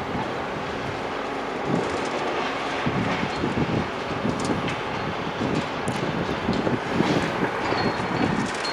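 Heavy demolition machinery running steadily, with irregular crunching and clattering of breaking material and debris from about two seconds in.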